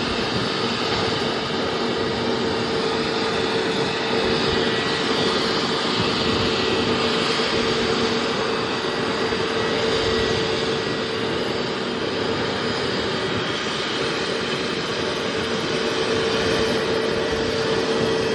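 Airliner's engines running steadily at the airport, a continuous rushing drone with a steady pitched whine, swelling slightly a few seconds in and again near the end.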